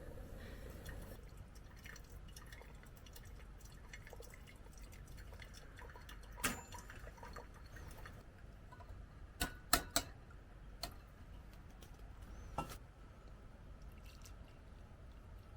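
Small drips and clicks over a low steady rumble. There are a few sharp knocks: one about six and a half seconds in, a quick cluster of three around ten seconds, and two more a little later.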